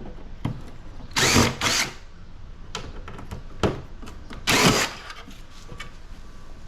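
Cordless drill-driver running in short bursts, backing screws out of an air conditioner's sheet-metal housing: two bursts about a second in and another past the middle, with light clicks of handling in between.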